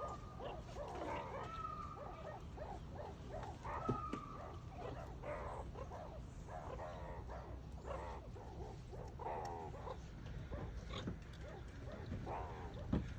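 Meerkats calling: a rapid stream of short chirps and squeaks, with two longer drawn-out calls about a second and about four seconds in. A steady low hum runs underneath.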